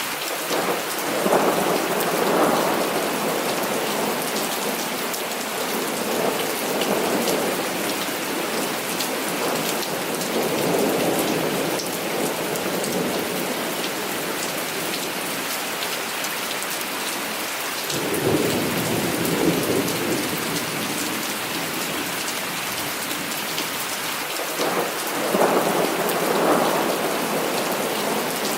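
Heavy, steady rain hissing, with several rolls of thunder swelling and fading over it: one about a second in, others around six, eleven and eighteen seconds, and one near the end.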